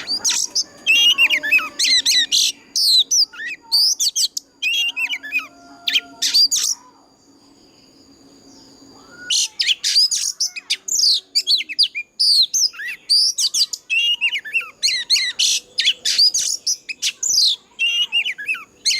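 Oriental magpie-robin singing a loud, fast song of varied whistles and chirps. It breaks off for about two seconds near the middle, then starts again.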